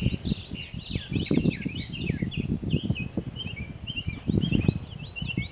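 Several birds chirping steadily in quick, overlapping short calls, over irregular low rumbling thuds.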